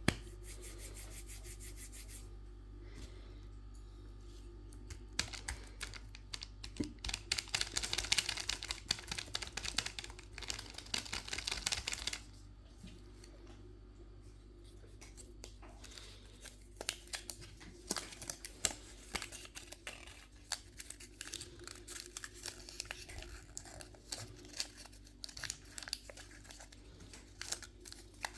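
Candy wrappers and packaging crinkling and tearing in dense crackly bursts, heaviest from about six to twelve seconds in and again in the second half, over a faint low hum.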